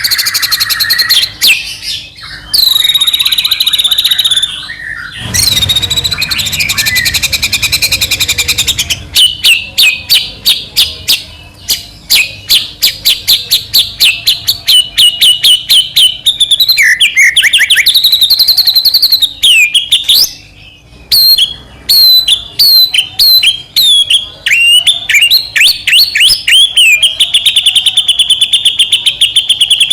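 White-rumped shama (murai batu) singing a loud, continuous, varied song of ringing whistles, fast repeated notes and trills, with a buzzy rattle about five seconds in.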